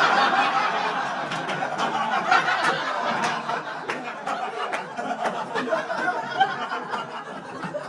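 Live comedy audience laughing and applauding after a punchline, with a burst of clapping and laughter that slowly fades over several seconds.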